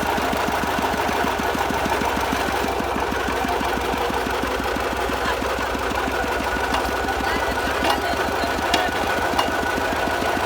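Small farm tractor engine running steadily, a rapid even pulsing. A few sharp knocks stand out in its later part.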